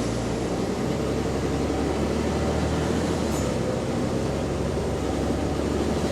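Bus diesel engine running steadily under way, heard on board, with an exhaust leak.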